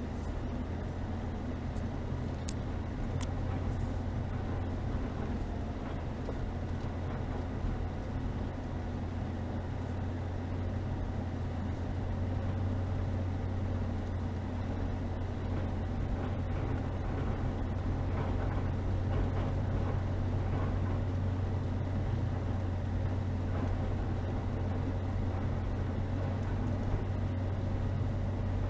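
Chevrolet Niva's four-cylinder petrol engine and drivetrain running with a steady low drone as the car drives slowly over a snowy forest track, growing slightly louder over the second half. A couple of light clicks come about two to three seconds in.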